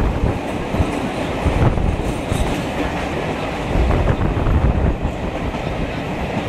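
Train running through a tunnel: a loud, steady noise of wheels on rails, with a few sharp clacks over the rail joints.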